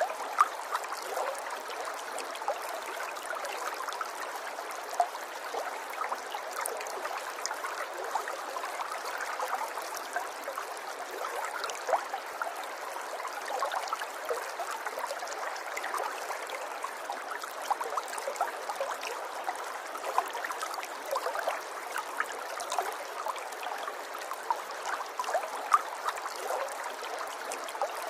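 River water flowing, a steady babble with many small splashes and gurgles scattered through it.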